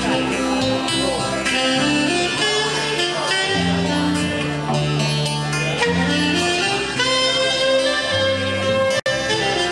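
A live band playing a slow song, with a moving bass line under sustained melody notes. The sound cuts out for an instant about nine seconds in.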